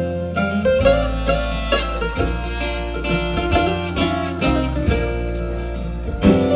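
A country band's instrumental break: a quick plucked-string lead line played over a steady bass and rhythm accompaniment, with no singing.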